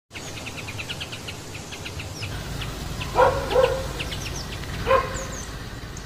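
Small birds chirping in quick repeated notes, with three short, louder, lower-pitched calls in the middle.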